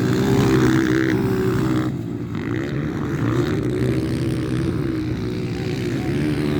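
Several 125–160 cc motocross motorcycle engines running together, their pitch rising and falling as the riders work the throttle and shift.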